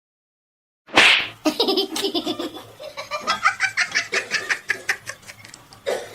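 A person laughing hard. It starts with a loud outburst about a second in, followed by quick repeated laughs, several a second.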